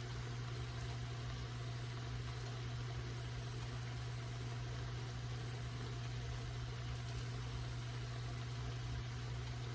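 Oyster mushrooms frying in hot oil: a steady sizzle with a few faint pops, over a steady low hum.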